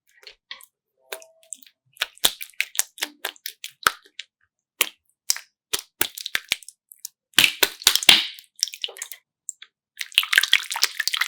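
Irregular sharp crackles and clicks, bunching into dense crackling clusters about seven and a half seconds in and again near the end.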